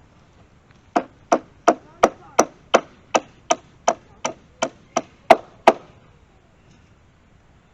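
A hammer striking steadily, about three blows a second, fourteen in a row, that start about a second in and stop near six seconds.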